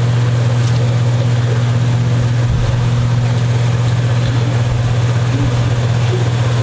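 Steady low hum with a strong, unchanging pitch and no other sounds standing out.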